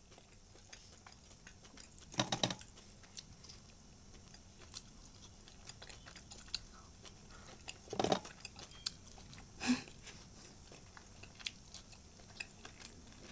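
Soft chewing and biting of steamed momos, quiet mouth noises with faint clicks. A few louder short mouth sounds come about two, eight and ten seconds in.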